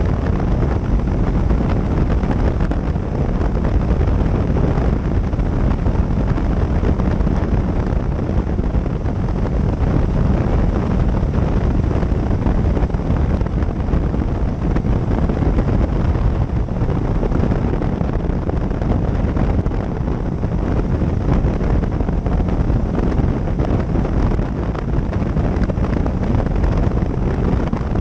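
Steady wind noise on the microphone mixed with a motorcycle's engine and road noise while riding, with no change in pace.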